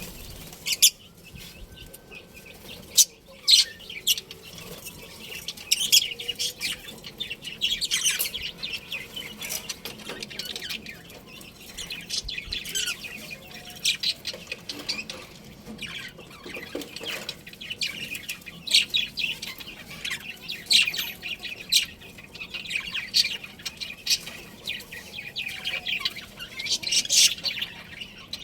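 A group of budgerigars chirping and chattering: many short, high calls overlapping without a break.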